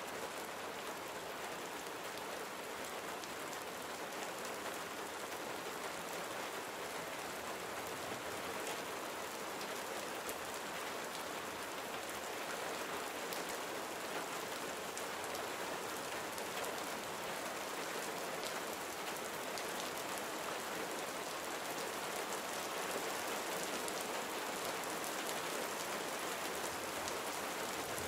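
Gentle summer rain falling steadily: an even soft hiss with scattered individual drops ticking through it.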